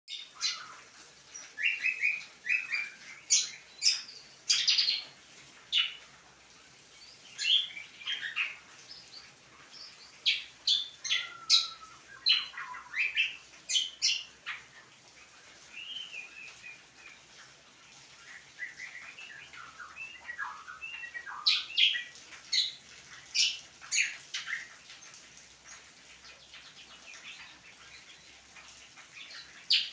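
A cucak kombo songbird singing: loud bursts of quick whistled and chirping notes, with softer warbling phrases in between.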